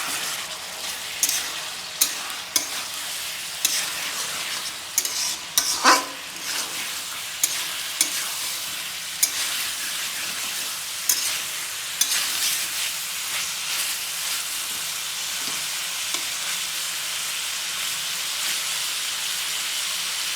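Smoked pork with potato and tomato sizzling in a pan on high flame, a little water just added. A spatula scrapes and knocks against the pan for the first half or so, with one short squeal about six seconds in, then the sizzle goes on steadily.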